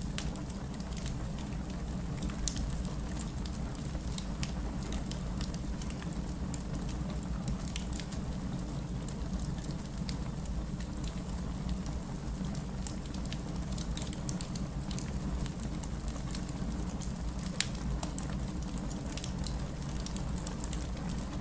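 Wood fire crackling in a fireplace: a steady low rumble of flames under many small snaps, with two louder pops, one about two and a half seconds in and one a few seconds before the end.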